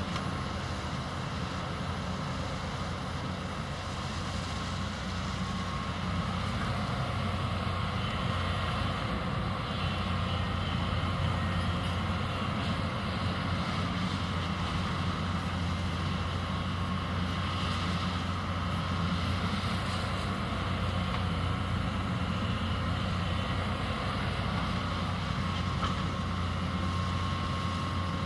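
Hyundai 220 excavator's diesel engine running steadily under work, with a steady high whine riding over the low drone.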